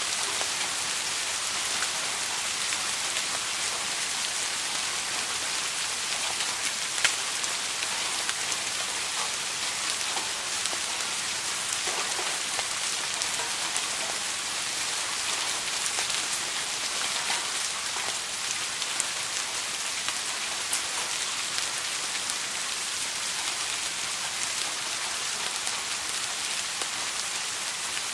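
Steady rain falling and pattering on a surface, an even hiss with scattered individual drop ticks, one slightly louder about seven seconds in.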